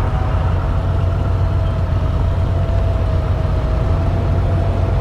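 Motorcycle riding on the road: a steady low engine and road rumble with a faint held whine above it.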